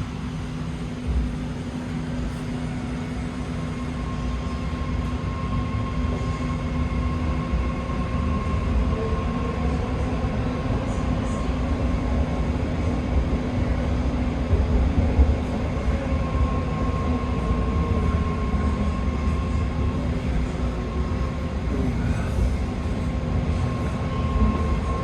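BART rapid-transit train running on the line, a steady rumble of wheels and motors with a faint steady whine, growing louder over the first few seconds as it pulls away from the station and picks up speed.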